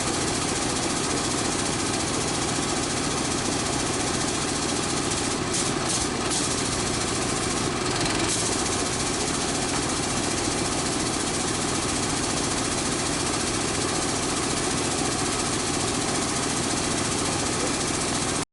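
An engine idling steadily, with a few faint clicks about six and eight seconds in.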